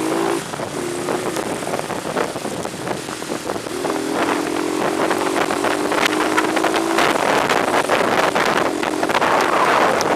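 A vehicle travelling in light to moderate rain, heard through an action camera's built-in microphone: steady wind and road noise full of crackling ticks. A steady engine note comes in briefly at the start and again about four seconds in, lasting about three seconds.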